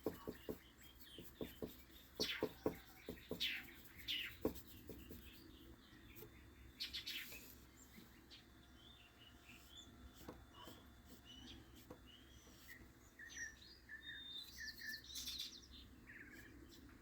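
Small birds chirping and calling in short phrases, with a run of light taps and clicks in the first few seconds.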